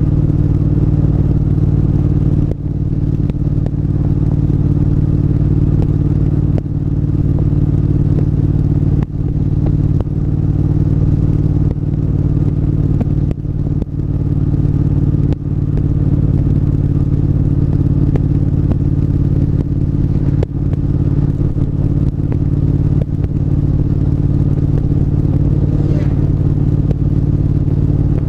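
Triumph parallel-twin motorcycle engine running steadily while riding, with a few brief dips in loudness along the way.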